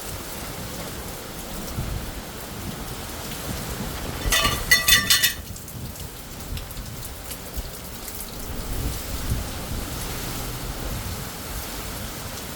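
Steady rain falling on hard surfaces, with a low rumble of thunder underneath. About four seconds in, a brief burst of rapid, high-pitched clicking chirps lasts about a second and is the loudest sound.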